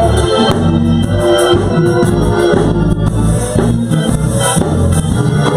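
Gospel band playing between sung lines: organ chords over held bass notes and drums keeping a steady beat.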